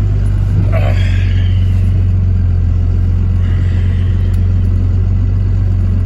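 Vehicle engine running steadily, a constant low drone. A couple of brief, fainter higher sounds come in over it, about a second in and again around the middle.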